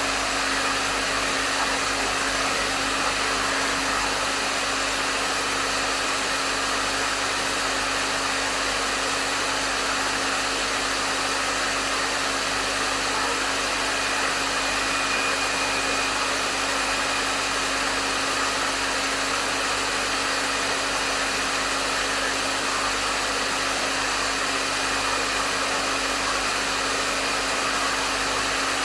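Hair dryer running steadily on a medium setting: an even rush of blown air with a steady motor hum underneath.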